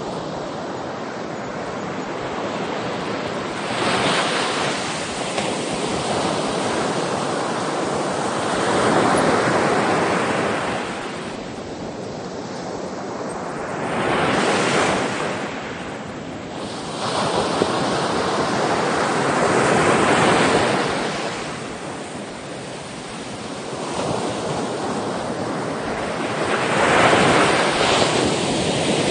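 Sea waves breaking and washing on the shore, a steady surf that swells and fades about every five or six seconds.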